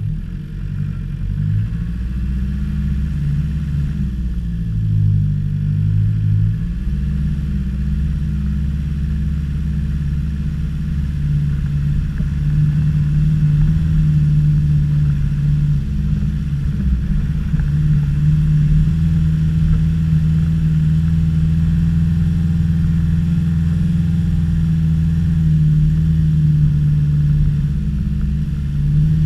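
Land Rover Discovery engine running under load off-road, its revs changing over the first several seconds and then holding steady from about halfway.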